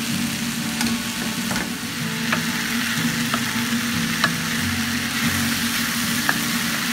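Green beans sizzling in a frying pan while a wooden spatula stirs them, with a few sharp clicks of the spatula against the pan.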